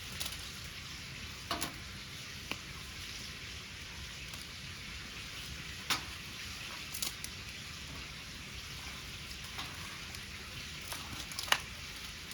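Wood bonfire crackling: a steady hiss with a few sharp pops scattered through it, the loudest near the end.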